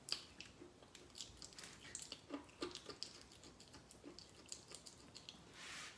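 Faint, close mouth sounds of someone chewing a Domino's cookie brownie: scattered soft clicks and smacks, with a short hiss of noise near the end.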